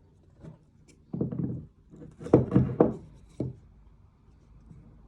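A short scrape followed by a few sharp knocks and a click, like a hammer or pieces of wood being handled and set down on a workbench.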